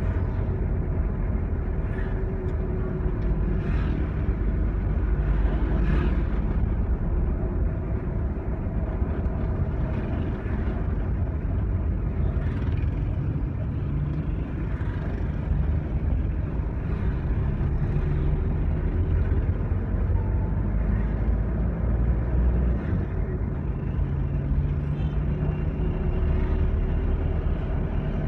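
Motor vehicle engine running with a steady low rumble, its pitch shifting a little now and then, with scattered light rattles.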